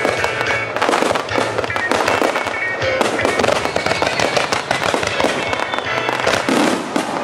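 Aerial fireworks bursting and crackling in rapid succession, many reports overlapping, with music playing underneath.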